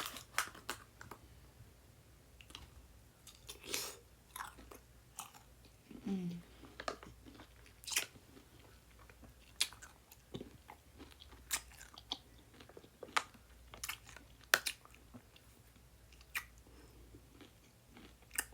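Close-up biting and chewing of a whole kosher dill pickle: crisp crunches at irregular intervals, roughly one every second.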